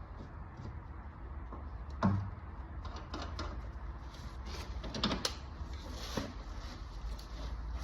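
Scattered knocks and clicks of metal tools being handled on car bodywork, over a steady low hum. The sharpest knock comes about two seconds in, with two more around five and six seconds.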